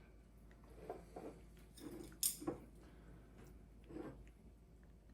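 A few faint, short clinks and knocks of bowls and utensils being handled, spread over a few seconds in a quiet room.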